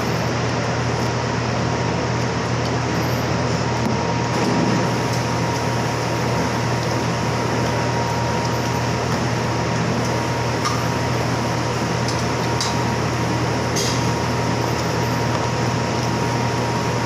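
Steady machine hum and hiss, with a few faint short clicks about two-thirds of the way through.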